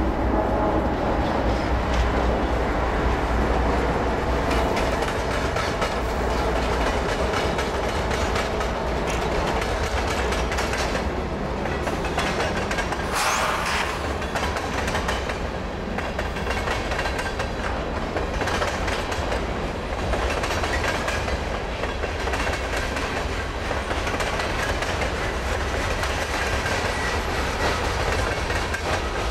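Canadian Pacific freight train passing: two diesel locomotives go by about halfway through, followed by covered hopper cars with their wheels clacking over the rail joints, over a steady low rumble.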